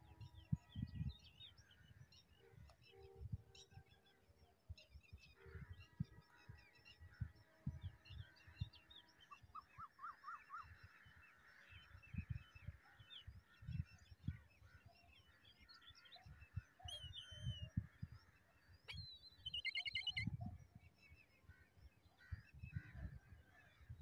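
Assorted bird chirps and calls, among them a short trill about ten seconds in and a wavering call about twenty seconds in, over irregular low rumbling bumps.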